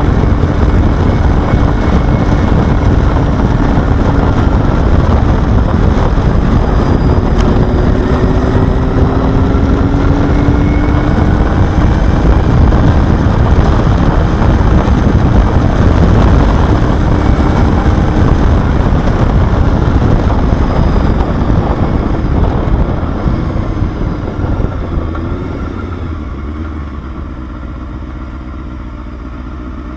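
Honda Hornet inline-four motorcycle engine running under way, with heavy wind and road rush and a faint engine note that rises slowly in pitch. About 22 seconds in it eases off and quietens toward idle. The exhaust ports have been chamfered, which the owner says lets it rev out more smoothly at high rpm.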